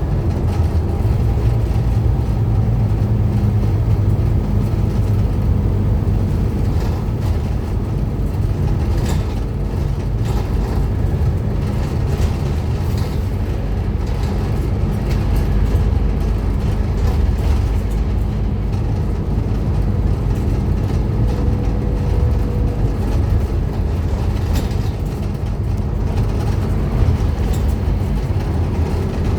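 Scania N230UD Omnicity double-decker bus, its five-cylinder diesel engine running with a steady low drone.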